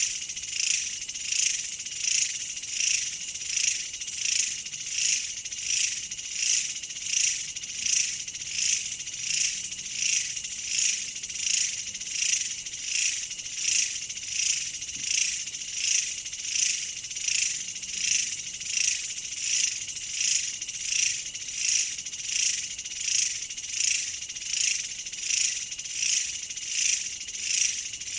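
A chorus of insects chirping, high-pitched and pulsing in an even rhythm of about four swells every three seconds.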